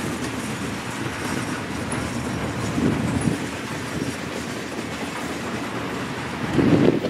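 Train and its rail cars rolling along the track, a steady rumble that swells louder about three seconds in and again near the end.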